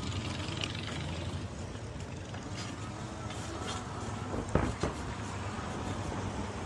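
Steady low rumble of outdoor traffic or road noise, with two sharp knocks close together about four and a half seconds in.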